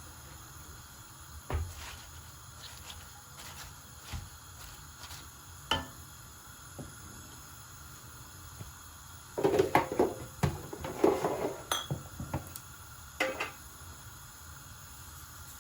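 Dishes and cutlery clinking and knocking against each other in sharp, scattered strikes, with a busy run of clatter past the middle.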